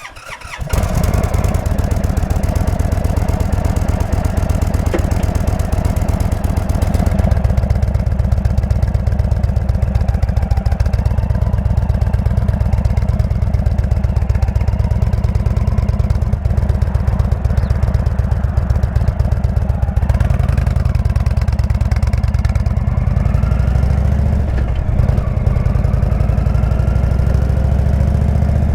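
Indian V-twin motorcycle engine with a Jekill & Hyde exhaust, idling with a fast, even pulse and a deep tone.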